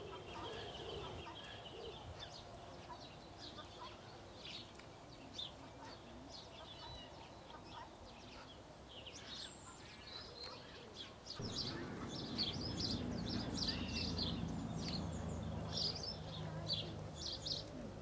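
Birds chirping and calling, many short high notes throughout. A low rumble comes in about two-thirds of the way through.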